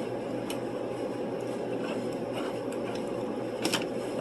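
Eating sounds: soft clicks of chewing and utensils over a steady low hum, with one sharper click about three and a half seconds in.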